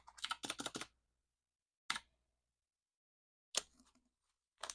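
Paper banknotes being handled during counting: a quick run of crisp flicks about half a second in, then three single sharp snaps spread over the rest.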